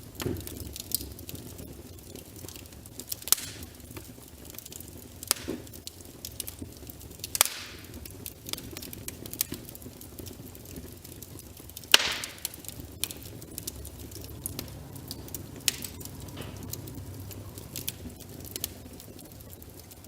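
Logs burning in a fireplace, crackling with a steady scatter of small snaps over a low rumble of the flames. Several louder pops break through, the loudest about twelve seconds in.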